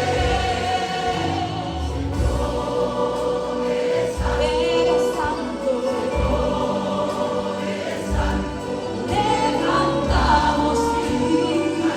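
Church choir singing a worship song, with sustained held notes over a steady instrumental accompaniment with bass.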